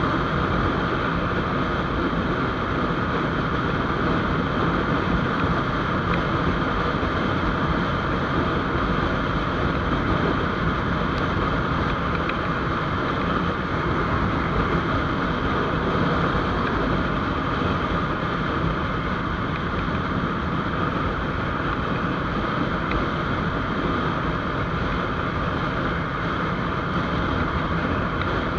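GPX GR200R motorcycle running at a steady cruising speed, its engine under a constant rush of wind over the microphone.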